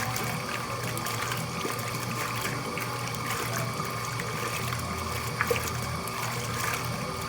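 Mueller Plus washing machine running with water, over a steady motor hum with a few small clicks.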